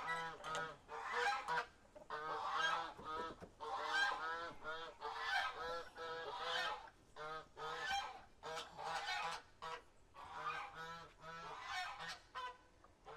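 Domestic geese honking in quick runs of short, repeated calls, several calls overlapping at times, with short pauses between runs.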